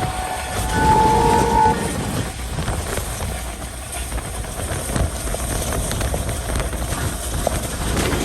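Passenger train running on the track: a steady rumble with scattered wheel clicks. A short horn note sounds about a second in.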